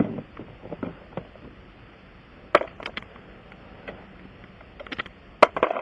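Scattered clinks and knocks of hand tools and metal parts being handled during a car tire repair, with a cluster of several sharp clicks near the end.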